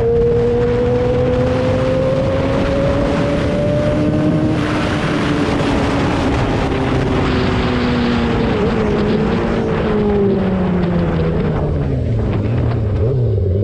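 A 2003 Yamaha R6's inline-four engine running under way, its note climbing slowly for the first few seconds. About four seconds in, a louder rush of noise joins it, and the engine note then falls away steadily as the bike slows.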